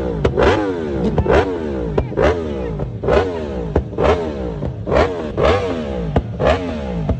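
An engine being revved in repeated sharp blips, about once a second, each blip followed by the revs falling away.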